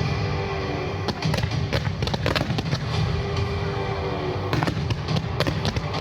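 Fireworks going off in a run of sharp bangs and crackles, with a cluster about two seconds in and another near five seconds, over music played with the show.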